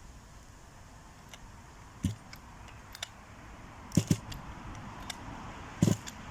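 A few sharp clicks and light knocks of hard objects being handled, two close together about four seconds in and the loudest near the end, over a quiet background.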